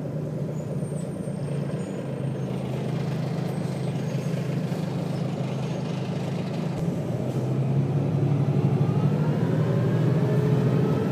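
Volvo B6BLE bus's diesel engine pulling hard on a ZF automatic gearbox kick-down, heard from on board. The engine gets louder through the stretch, and a whine rises in pitch near the end.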